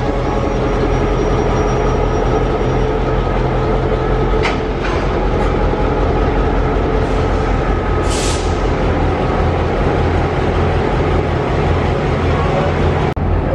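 A diesel locomotive and a rake of stainless-steel passenger cars rolling slowly past along the platform: steady low rumble of engine and wheels, faint squealing, a couple of clicks about four and a half seconds in and a short hiss of air about eight seconds in. The sound breaks off abruptly near the end.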